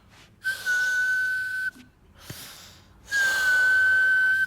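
A high whistle blown on one steady note with a breathy hiss around it. It sounds twice, each note held for over a second, with a short gap between.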